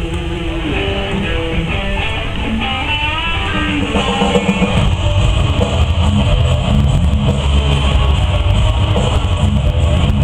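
Rock music led by electric guitar, with melodic lines and bent notes in the first few seconds. It turns fuller and louder about four seconds in.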